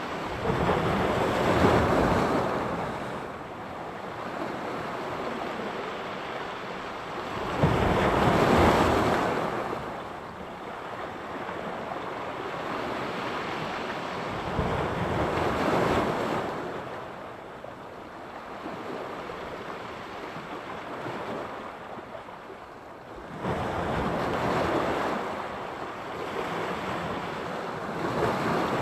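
Sea surf: waves breaking on the shore, each one swelling up and washing back, roughly every seven to eight seconds, with a steady wash of water in between.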